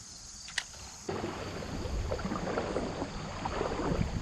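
Water sloshing and splashing, starting suddenly about a second in after a quiet start with one sharp click.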